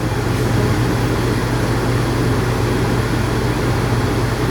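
Electric dog grooming clippers running with a steady low hum as they trim a dog's face.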